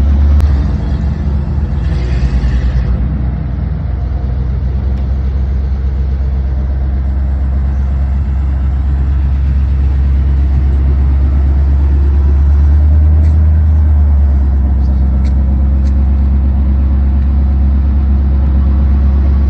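Ford truck engine running with a loud, steady low exhaust rumble, with a brief hiss about two seconds in.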